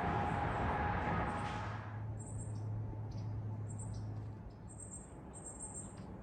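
A steady rushing noise that fades out about two seconds in, followed by a string of short, very high-pitched bird chirps.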